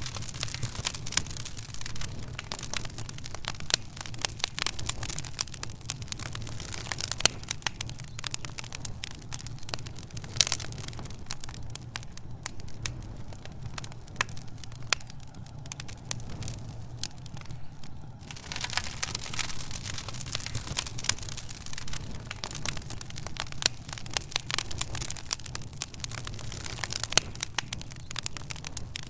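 Fire in a fireplace crackling, with many sharp snaps and pops over a low steady rumble; the crackling thins out for several seconds midway, then turns dense again.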